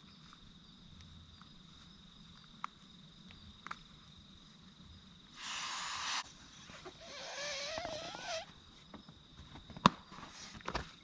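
A steady high insect trill runs over quiet bush, broken by a few sharp clicks, the loudest about ten seconds in. A brief rustle comes about five seconds in, and a wavering, warbling call follows about seven seconds in.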